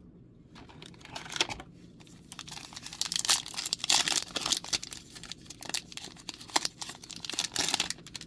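Crinkly plastic wrapper of a Magic: The Gathering booster pack being torn open and crumpled, in a rapid run of crackles that grows busier from about three seconds in.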